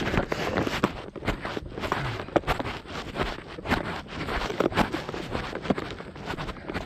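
Running footsteps on a trail, footfalls repeating at a steady pace with the jostle of a camera carried by the runner.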